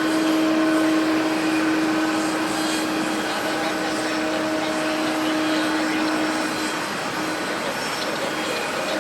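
Jet engines of an ANA Boeing 787-9 Dreamliner on its departure, a steady engine noise with a steady hum running through it that eases slightly near the end.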